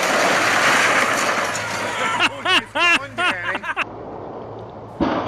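A steady rushing noise, then a person's voice shouting, breaking into several calls over about a second and a half starting two seconds in, before the noise drops back quieter.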